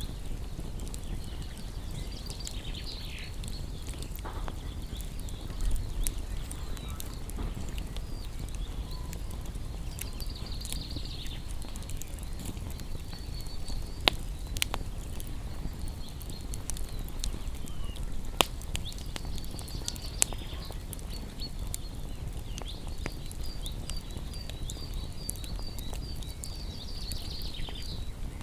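Wood fire crackling, with scattered small snaps and a few louder sharp pops in the middle, while small birds chirp in runs of quick high repeated notes.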